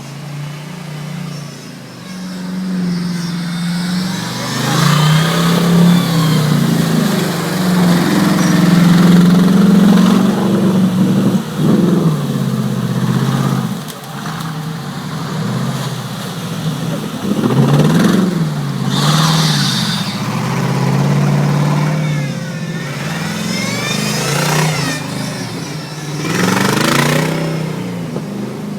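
V8 engine of an off-road 4x4 buggy revving hard, its pitch rising and falling again and again under load. There are louder bursts of rushing noise about two-thirds of the way in and near the end.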